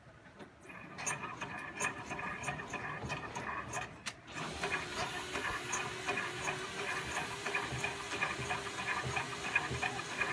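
Small motor-driven shake table running with a rapid, even rattle, shaking a model structure. It gets louder about four seconds in, when a steady hum joins the rattle.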